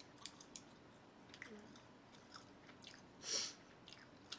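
Close-miked chewing with soft wet mouth clicks. A short hiss comes about three seconds in, like a quick breath or sniff.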